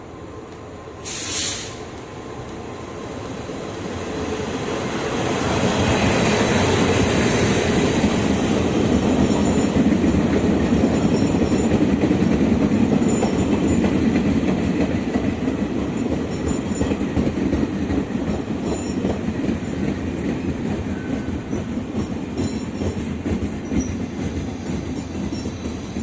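Train approaching and running past on the tracks: a rumble that builds over several seconds, stays at its loudest for a while with wheels clicking over rail joints, then slowly fades. A short burst of hiss-like noise comes about a second in.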